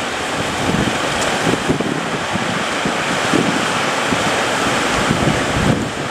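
Loud surf with strong wind buffeting the microphone, a steady roar broken by irregular low gusts.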